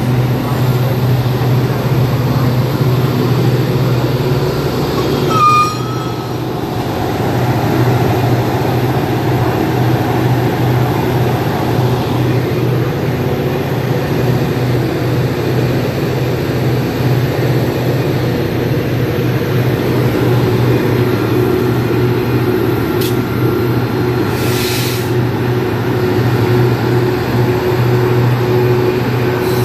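Diesel train locomotive running steadily with a continuous low hum and a steady higher tone; a short high squeal about five seconds in and a brief hiss near the end.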